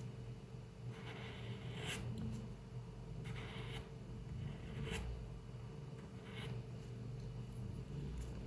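Pencil drawing on paper: a few short scratchy strokes with a couple of sharp ticks, over a low steady hum.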